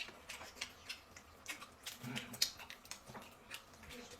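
Faint, irregular small clicks and soft ticks in a quiet room, with a slightly fuller soft sound about two seconds in.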